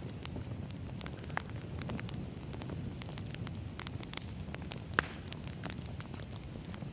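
Firewood burning: a steady low rumble of flames with irregular crackles and pops, one sharper pop about five seconds in.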